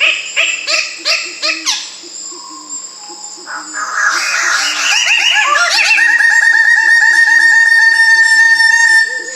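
Bird song: a run of short, repeated whistled notes, then from about five seconds in a loud, fast, even trill of rapidly repeated notes that stops near the end.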